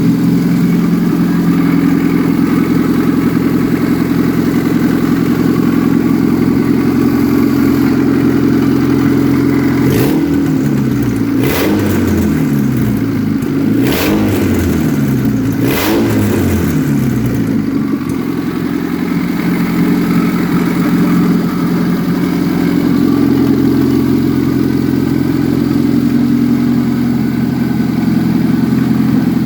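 Mitsubishi 4G92 SOHC inline-four idling loudly with the lower exhaust not yet fitted. Midway it is blipped up and down about four times with a few sharp cracks, then it settles back to a steady idle.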